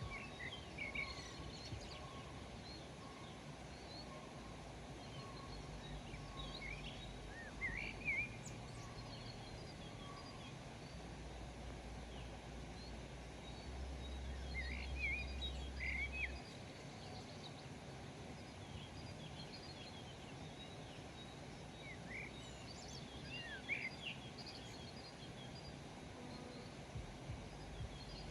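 Small birds chirping in short, quick calls that come in scattered clusters over a steady background hiss. There is a low rumble partway through.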